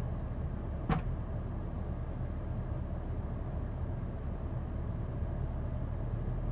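A vehicle engine idling with a steady low rumble, and a single sharp click about a second in.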